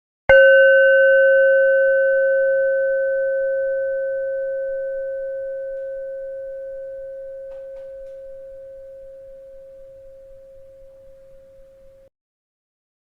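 A bell struck once, ringing with a clear mid-pitched tone and a few higher overtones that fade slowly over about twelve seconds before the sound cuts off abruptly; it is struck again at the very end.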